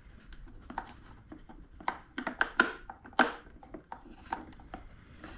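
Irregular clicks and taps of a Torx screwdriver and loose parts being handled against the compressor's housing, with the loudest cluster about two to three seconds in.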